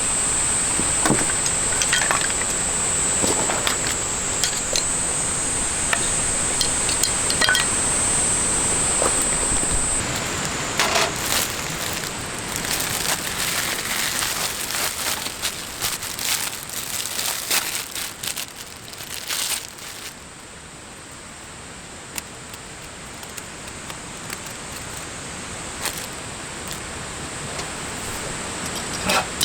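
Light clinks and knocks of small objects being handled, over a steady high-pitched drone that drops away about ten seconds in; the second half is quieter.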